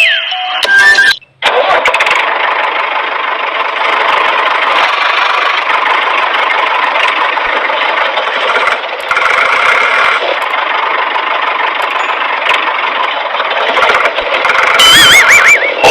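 A tractor engine starts and runs steadily. Near the end, warbling whistle tones play over it.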